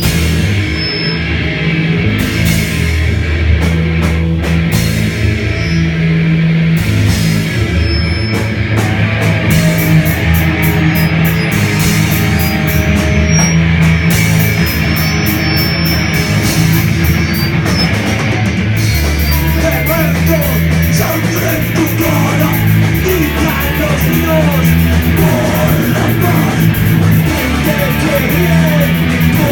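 Rock band playing an instrumental passage in rehearsal: heavy distorted electric guitar over sustained bass notes and drums with frequent cymbal hits. Busier melodic guitar lines come in about two-thirds of the way through.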